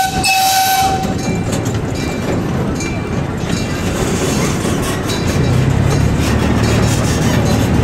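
Amusement-park train rolling along its track, heard from an open passenger car: a steady rumble with the wheels clicking over the rails. A brief high tone sounds at the very start, and a steady low hum joins about five seconds in.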